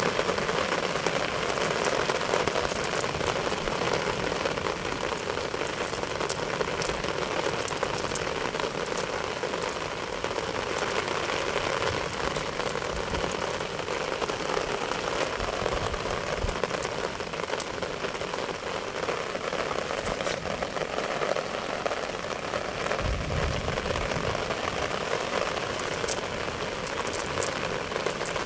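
Steady rain falling on wet ground and puddles, an even hiss with scattered sharp drop ticks.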